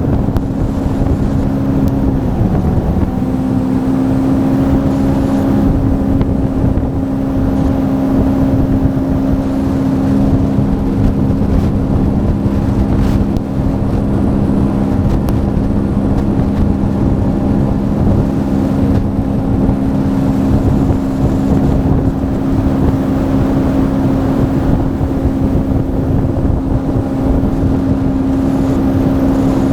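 Sea-Doo FishPro jet ski engine running at a steady cruising speed. The engine note dips briefly about two seconds in, then picks up and holds steady.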